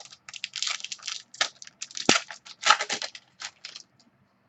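A trading card pack being torn open: a dense run of crinkling and tearing wrapper that stops about four seconds in.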